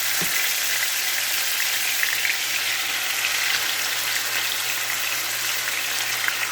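Chicken pieces, skin on, frying in hot ghee: a steady, crackling sizzle from the fat.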